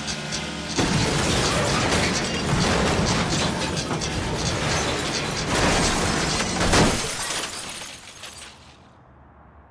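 Car crash sound effect: a sudden loud impact about a second in, then several seconds of crunching metal and shattering glass with repeated hard hits. The loudest hit comes near seven seconds, then it fades away.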